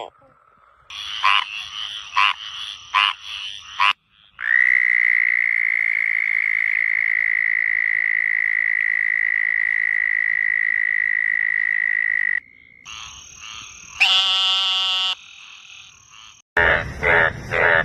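A run of different frog and toad calls: a few short croaks, then one long, steady, high-pitched trill lasting about eight seconds, a short pulsed call, and near the end a loud, fast, pulsing call.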